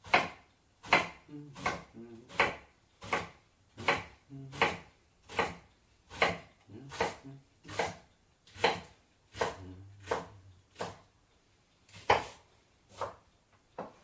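Kitchen knife chopping salad vegetables on a cutting board: single sharp chops at a slow, even pace of about three every two seconds, with a brief pause near the end.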